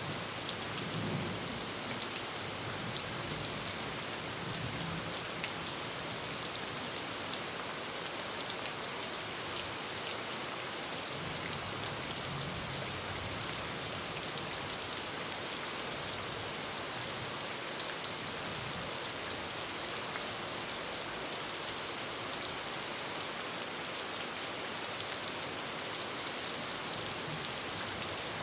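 Heavy rain falling steadily on a tin roof: a dense, even hiss full of small drop ticks.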